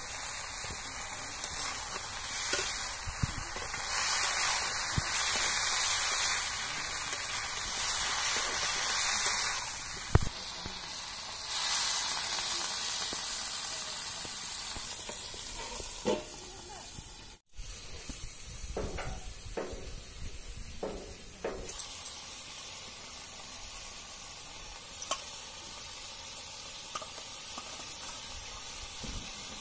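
Brinjal pieces sizzling in hot oil in an iron kadai over a wood fire, with a metal spatula scraping and knocking against the pan as they are stirred. The sizzle is louder in the first third, and cuts out for a moment about two-thirds of the way through.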